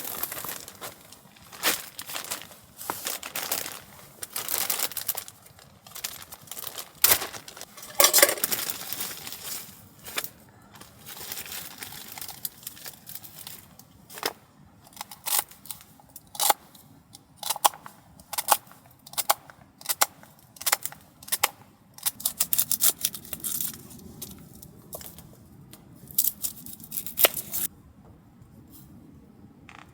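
Irregular crinkling and rustling with many sharp clicks and knocks, as of gear or material being handled close by.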